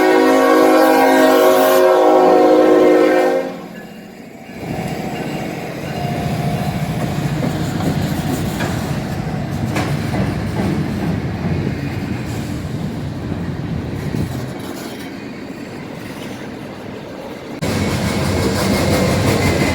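Locomotive horn sounding a held chord for about the first three and a half seconds, then a passing train's steady rumble of wheels on rail, which shifts abruptly and grows louder near the end.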